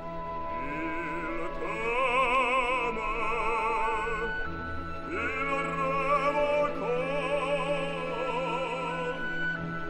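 Operatic singing with wide vibrato over an orchestral accompaniment, in long sung phrases.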